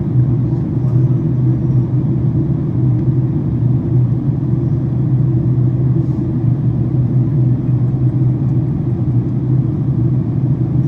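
Steady low cabin rumble of a Boeing 767-400ER airliner in flight during descent: engine and airflow noise heard from inside the passenger cabin, even and unchanging.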